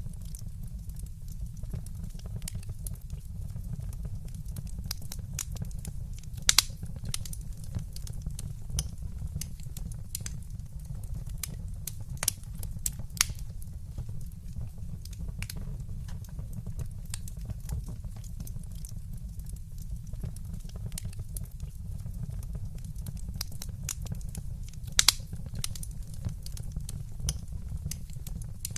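Wood fire burning in a fireplace: a steady low rumble of the flames with scattered crackles and pops, two louder pops about six seconds in and near the end.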